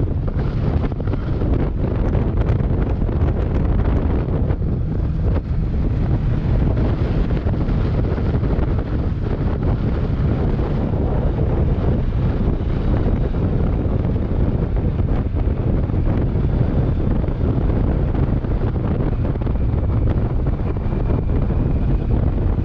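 Steady wind buffeting a microphone on a Kawasaki Versys 650 motorcycle riding at road speed.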